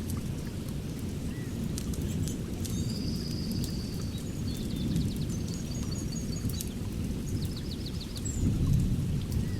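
Wood fire crackling with scattered sharp pops over a steady low rumble, while a bird calls with short trills several times.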